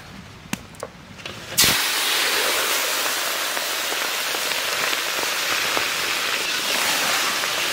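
Small prawns tipped into hot mustard oil in a large kadai, the oil bursting into a loud, even sizzle about a second and a half in and frying steadily.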